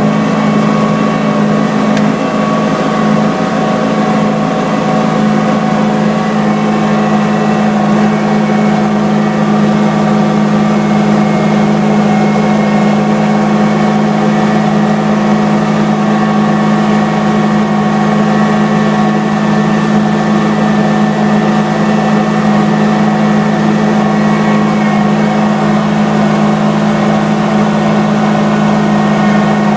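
A vehicle engine running at a steady speed close by, a constant low hum with overtones and no change in pitch.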